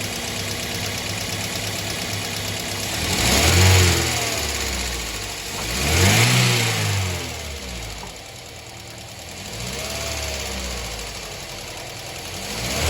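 Toyota Corolla GLi's petrol engine idling, then revved three times, each rev rising and falling away, the third one lighter. Its rough, noisy running is what the mechanic puts down to the tappets.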